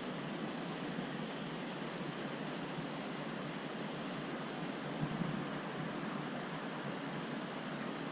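Steady rushing noise of aquarium water circulation, water churning and splashing through a large tank's filtration, with a brief soft knock about five seconds in.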